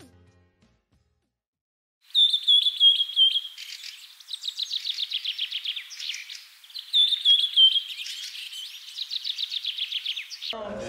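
A songbird singing: quick high chirping phrases and fast trills, repeated over several seconds. It starts about two seconds in and cuts off abruptly near the end.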